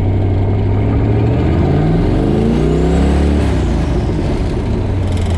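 Twin-turbo small-block Ford V8 heard from inside the car, running steadily, then revving up for about two seconds starting about one and a half seconds in before dropping back.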